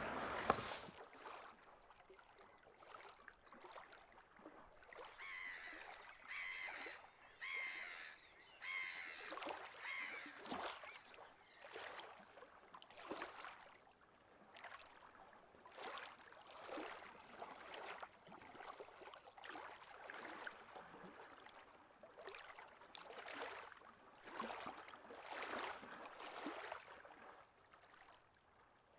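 Birds calling faintly, a series of short repeated calls coming and going throughout.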